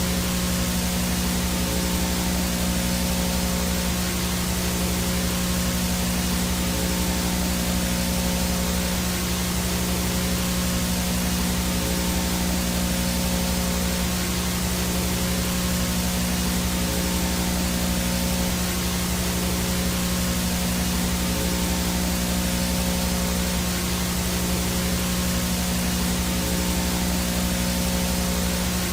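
Analog VHS no-signal static: a steady, unbroken hiss across the whole range, with a low buzzing hum and a faint high whine under it from signal interference.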